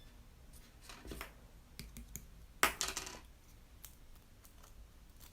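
Slime being handled: sticky clicks and short crackly pops, a cluster about a second in and the loudest burst near three seconds in, with scattered small clicks between.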